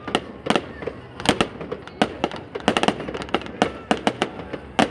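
Fireworks display going off: an irregular run of sharp bangs and pops, several a second.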